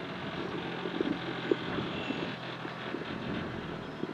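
Renault Clio II rally car's engine running at low revs, heard inside the cabin as the car rolls slowly, with two short knocks about a second and a second and a half in.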